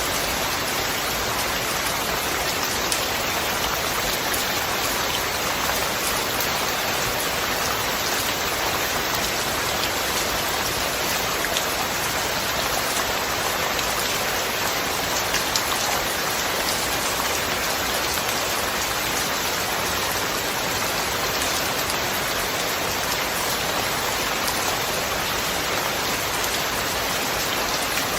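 Steady, even rain falling, a dense hiss with fine drop patter and no thunder.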